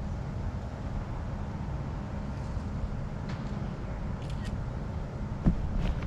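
Outdoor ambience of a steady low rumble, with a few faint ticks and one sharp knock about five and a half seconds in.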